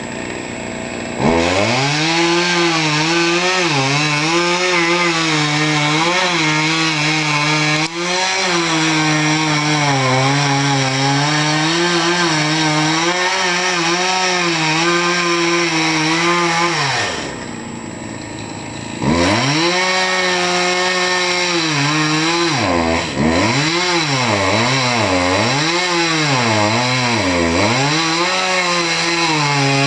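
Chainsaw cutting wood: it is throttled up about a second in, and its pitch sags and recovers as the chain bogs in the cut. About halfway through it drops to idle for a couple of seconds, then is revved again and bogs down several times in quick succession near the end.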